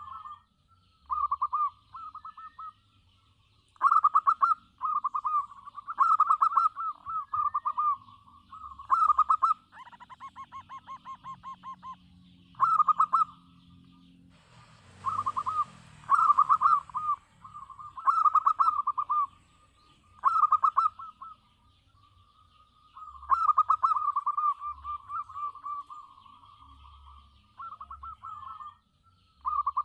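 Local zebra dove (perkutut) cooing over and over in short, rolling phrases with brief gaps between them. A short rush of noise breaks in about halfway through, and small birds chirp faintly behind.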